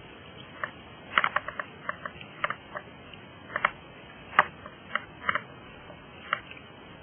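Irregular sharp clicks and taps, about fifteen of them in bunches, over a steady low hiss.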